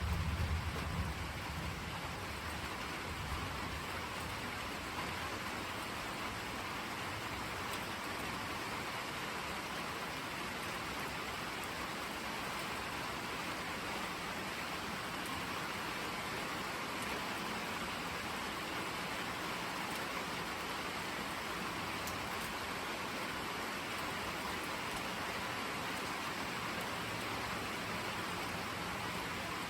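Steady rain falling. A low thunder rumble carries over into the first couple of seconds and fades away.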